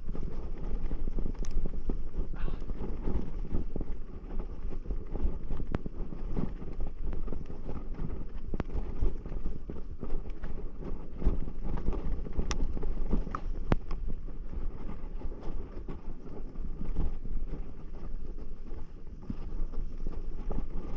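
Footsteps on a hiking trail with wind buffeting the microphone in a steady low rumble, broken by scattered sharp clicks.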